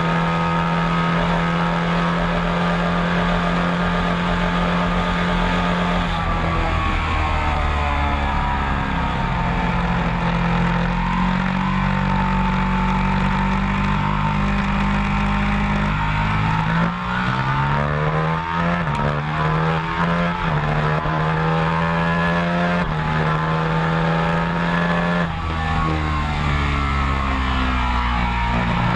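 Large motorcycle engine running, its pitch holding steady, then falling and rising several times as the throttle is worked.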